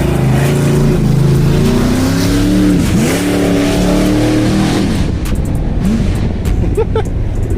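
Engine of a big modified vehicle with an aggressive aftermarket cam, running close by and revving, its pitch rising, dipping sharply about three seconds in and climbing again. The engine sound fades after about five seconds.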